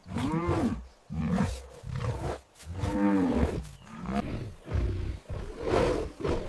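Big cat roaring and growling in a string of calls, two of them rising and then falling in pitch, with low rumbling growls between them.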